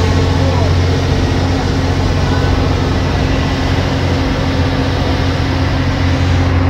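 Ferry engine running steadily: a constant low drone with an even rushing noise of wind and water over it.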